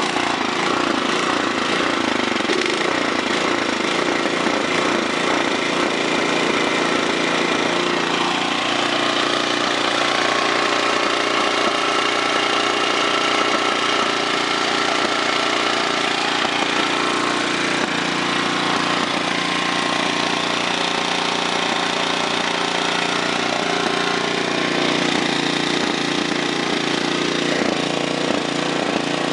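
Tecumseh 5.5 hp 195cc single-cylinder flathead engine (LH195SP Snowking) running steadily at fast throttle, just after a first-pull cold start on choke.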